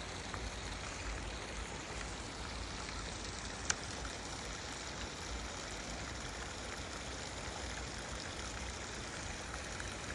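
Creek water running steadily, with one sharp click a little under four seconds in.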